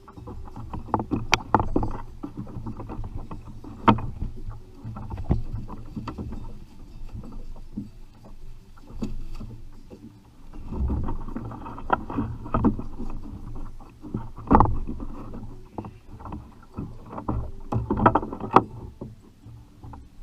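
Irregular knocks, clatter and water sounds aboard a fishing kayak, with low rumbling surges between the sharper hits.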